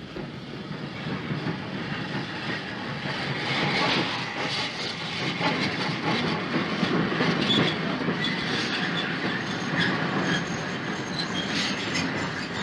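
00 gauge model train running on the layout's track: a steady clatter of metal wheels over rail joints, with many small clicks, getting a little louder a few seconds in.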